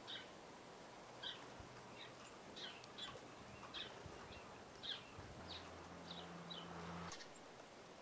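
Small birds giving short, high chirps, about a dozen spread through the stretch, faint against background hiss. A low steady hum joins for about a second and a half in the second half.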